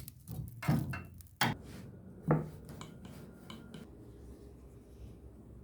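Kitchenware being handled: four sharp knocks and clatters in the first couple of seconds, then a few fainter clicks.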